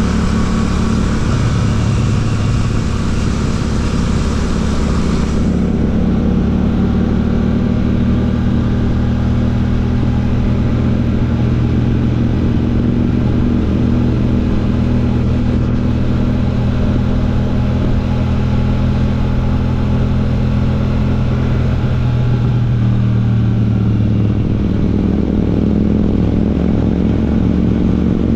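Royal Enfield Classic 650's parallel-twin engine running through an aftermarket Ngage exhaust as the bike is ridden, the note fairly steady and changing pitch about 23 seconds in. A higher hiss over the engine drops away about five seconds in.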